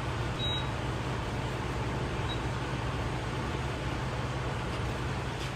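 Box truck engine running steadily with a low, even hum.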